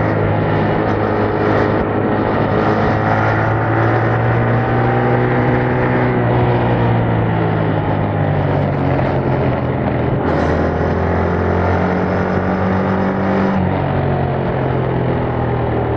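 Yamaha MT-07's parallel-twin engine running through its stock exhaust while riding. The pitch slides gently, then shifts in sudden steps about ten and thirteen and a half seconds in as the revs change.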